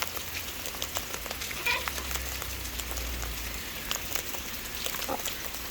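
Steady rain falling on the shelter and ground, with scattered drips tapping. A bird gives two brief calls, about two seconds in and near the end, and a low rumble sits under the rain in the middle.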